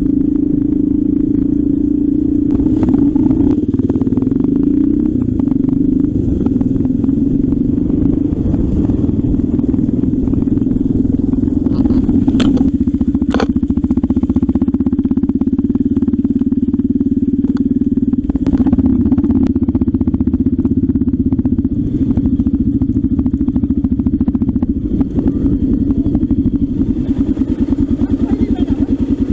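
Trail motorcycle engine running steadily at a near-constant pitch, with a few sharp knocks in the middle.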